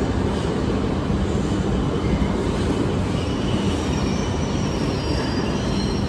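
A Shinkansen bullet train running along the station tracks: a steady rumble of wheels and running gear, with faint high-pitched whining tones joining in about halfway through.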